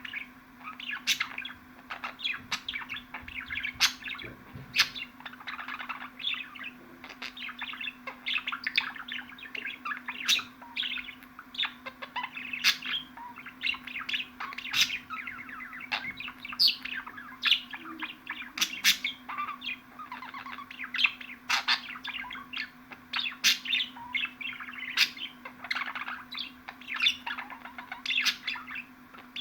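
Budgerigars chattering without a break: rapid warbling mixed with sharp, quick chirps, with a steady low hum underneath.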